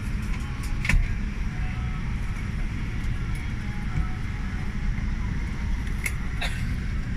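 Steady low rumble of cabin noise inside a Boeing 787 Dreamliner, with a few faint clicks or rattles about a second in and again near the end.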